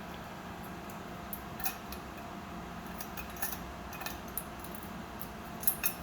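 A handful of small, sharp clicks and taps, irregularly spaced, the loudest two close together near the end, over a steady low hum.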